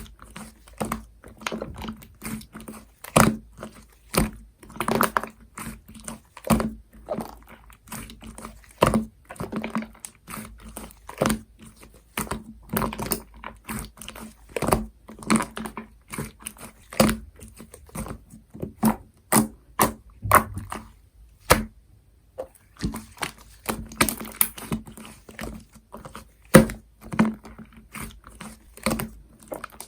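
Cream slime being squished and pressed by hand, giving a dense, irregular run of sticky clicks and pops, with a short pause about two-thirds of the way through.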